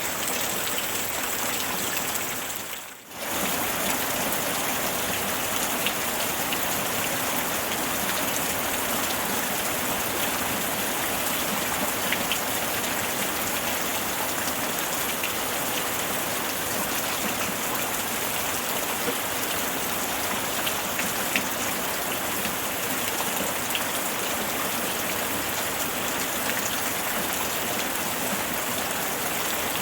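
Steady rain falling, with scattered sharp drop ticks among the even hiss. About three seconds in, the sound briefly fades away and comes straight back.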